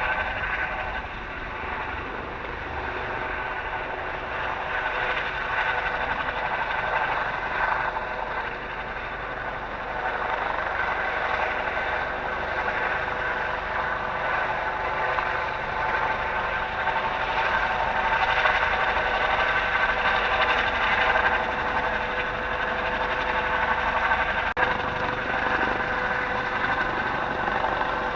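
Eurocopter AS365N3 Dauphin helicopter running, its twin turboshaft engines and rotors giving a steady whine of several held tones over a low rumble, growing somewhat louder about ten seconds in.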